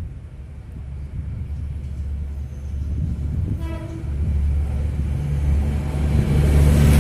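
Kereta Inspeksi 4 inspection train approaching along the track, its low rumble growing steadily louder, with one short horn toot a little past halfway.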